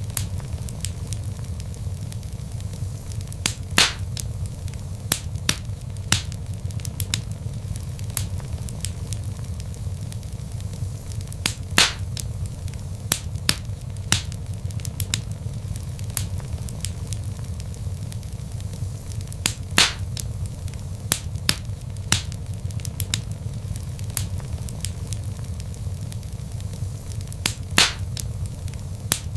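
Log fire in a fireplace crackling over a steady low rumble, with scattered small snaps and a louder pop about every eight seconds.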